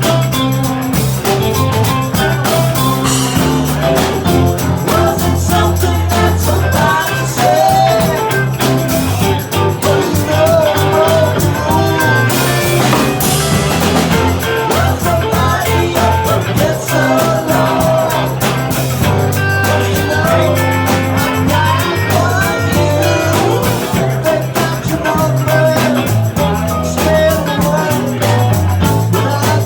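Live band playing an upbeat rock song, with bass, guitar, drums and a singer.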